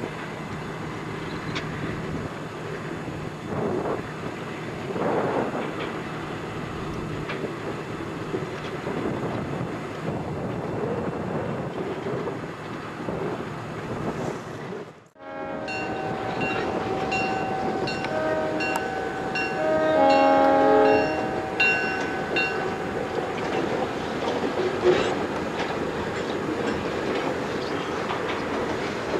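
Freight train rolling past behind an EMD SW1500 diesel switcher, with wheels clicking over rail joints. About halfway through the sound cuts, and then the locomotive's multi-chime air horn sounds a series of blasts for a grade crossing, loudest about two-thirds through, as the cars keep rolling.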